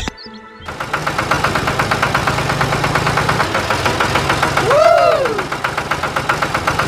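Tractor engine running with a steady, rapid chugging that starts about half a second in, just after a click. About five seconds in, a short tone rises and falls over it.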